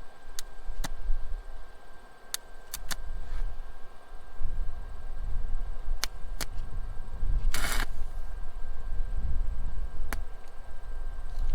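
Stick-welder arc being struck on a washer over a twisted-off bolt: scattered sharp pops and clicks, with a short sizzling burst about seven and a half seconds in, over a steady low rumble.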